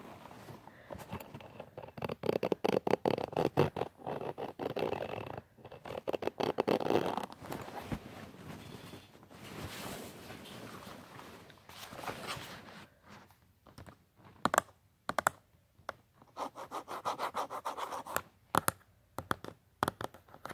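Scratching and rubbing on a surface in quick repeated strokes, giving way in the last several seconds to sharp separate taps and clicks.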